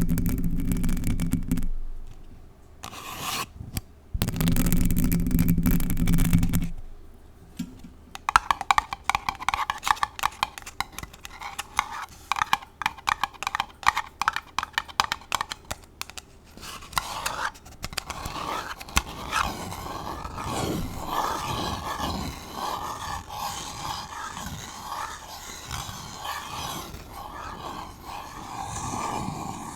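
Extra-long false nails scratching a paper cup and the bare Blue Yeti microphone. Two heavy, low rubbing scrapes in the first seven seconds, then a run of quick, rapid scratch strokes, then steadier continuous scratching.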